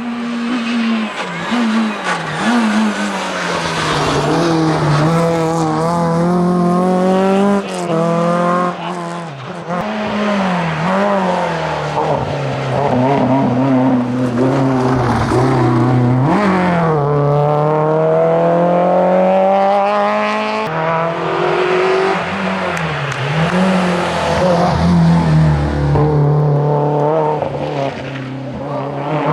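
Small four-cylinder rally hatchbacks driven flat out on a tarmac stage, a Renault Clio RS and then a Citroën Saxo VTS. The engines rev hard and shift up through the gears, the pitch climbing and dropping again and again.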